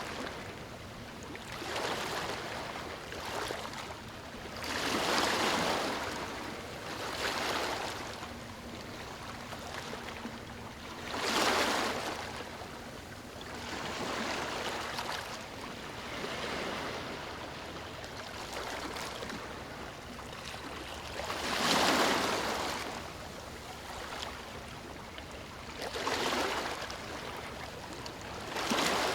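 Ocean waves breaking and washing up a beach, each surge swelling and fading every few seconds over a steady wash of surf.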